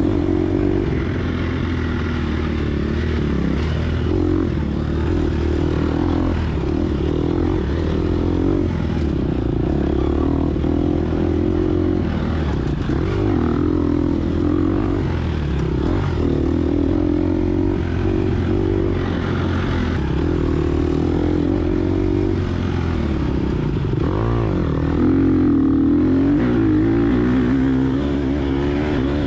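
Gas Gas EX250F dirt bike's 250 cc four-stroke single-cylinder engine running hard under load, its pitch rising and falling continually as the throttle is worked and gears change.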